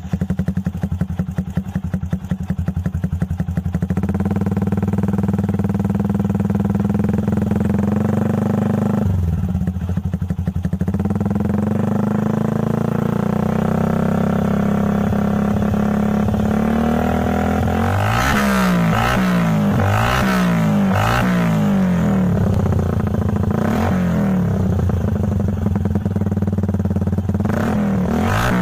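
Yamaha Vixion 150cc single-cylinder motorcycle engine running through an aftermarket exhaust, idling steadily. It is then revved in a run of quick throttle blips about two-thirds of the way through, and again near the end.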